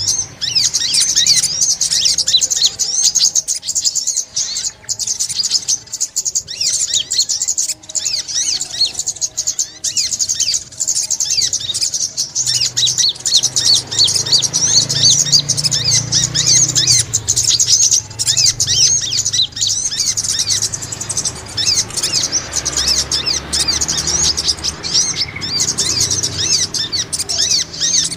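Brown-throated sunbird (sogok ontong) singing: a dense, continuous stream of rapid high-pitched chirps and twitters.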